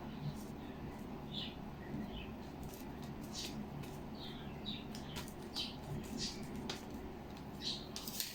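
Small birds chirping in short, high calls every second or so, with light clicks and rustles of paper being handled and glued.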